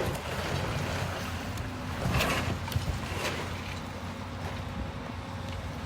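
Demolition machine's diesel engine running steadily while it wrecks the building, with crashes and crunches of breaking debris about two seconds in and again a second later.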